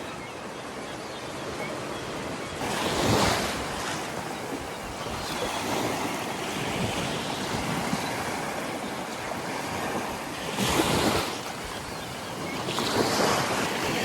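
Sea waves breaking and washing up the shore, with louder rushes about three seconds in and twice near the end.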